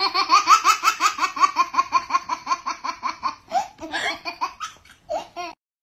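High-pitched laughter in a rapid string of short "ha" pulses that breaks into scattered giggles about three and a half seconds in and cuts off just before the end.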